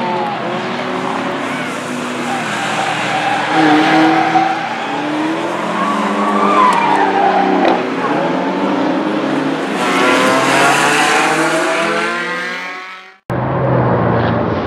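Drift cars' engines revving up and down with tires squealing as they slide. The sound fades out near the end and cuts abruptly to a lower, different sound.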